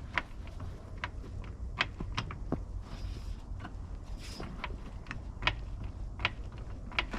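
Scattered sharp metallic clicks and clinks of lug nuts and wheel hardware being handled during a wheel change, over a steady low rumble.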